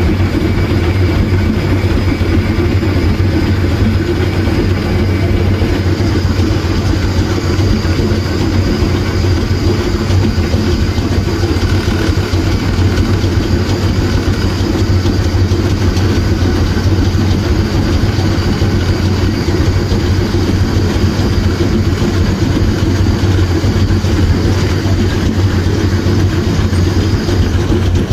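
Train running along the track, heard from aboard: a loud, steady low rumble with rattling, unbroken throughout.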